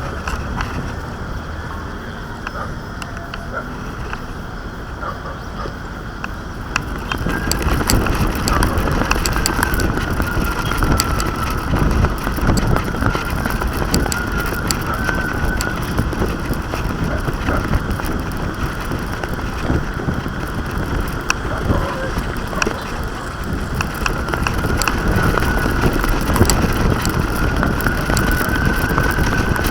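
Wind rushing and buffeting over the microphone of a small action camera carried aloft on a kite, with fine rattling clicks and a faint wavering whistle. It gets louder about seven seconds in.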